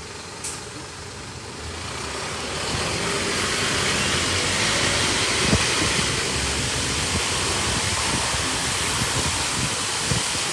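Scania K230UB bus moving off from idle and gathering speed: engine and road noise build over the first few seconds, then hold steady, with frequent small rattles and knocks.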